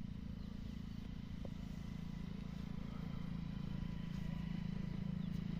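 A steady low engine hum that grows slightly louder near the end, with a few faint high chirps over it.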